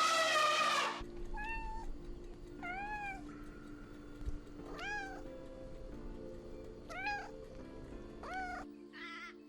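Cat meowing over background music: a louder call at the start, then five short meows that rise and fall in pitch, a second or two apart.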